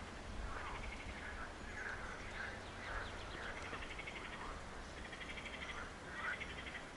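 Several birds singing together: a stream of short chirping notes with fast trills breaking in now and then, over a low steady rumble.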